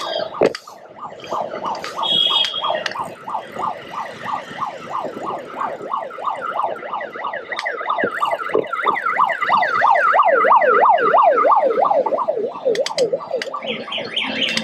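Electronic vehicle siren in a fast yelp, its pitch sweeping up and down about three or four times a second. It grows louder about halfway through, then fades slightly near the end.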